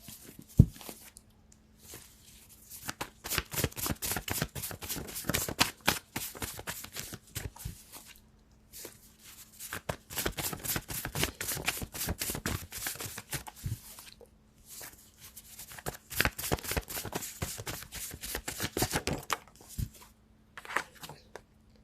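A deck of cards being shuffled by hand in three long runs of rapid riffling clicks, with short pauses between them. A single knock comes about half a second in.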